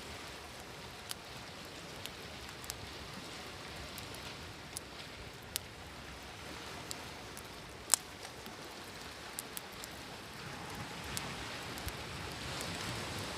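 Campfire crackling with sharp pops here and there, the loudest about eight seconds in, over a steady wash of sea waves; a wave swells up near the end.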